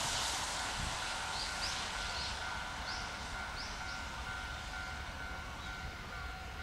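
A small bird chirps about five or six times, mostly in the first half, over a broad rushing noise that slowly fades. A faint steady hum runs underneath.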